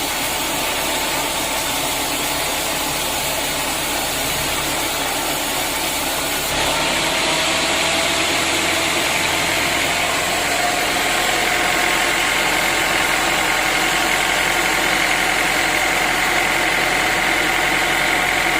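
Sawmill machinery running steadily. It steps up louder about six and a half seconds in, followed by a slowly rising whine.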